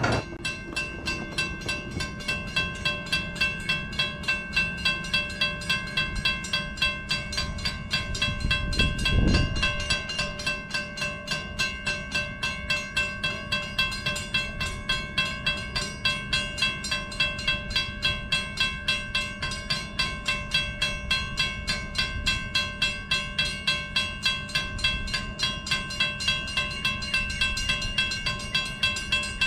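A train passing close by, its wheels clicking in a steady rhythm of about two to three a second over the rail joints, under a steady high ringing tone. A brief low rumble swells about nine seconds in.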